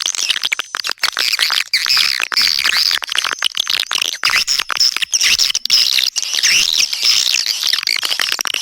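Swiftlet lure call recording: a dense, continuous chorus of overlapping high chirps and twitters of swiftlets, the sound played to draw swiftlets into a nesting house.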